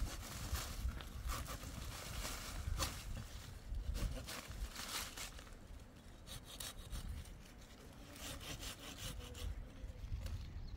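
Repeated rasping, scraping strokes in uneven bursts, over a steady low rumble.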